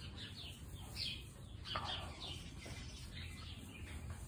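Small birds chirping over and over, short falling chirps several times a second.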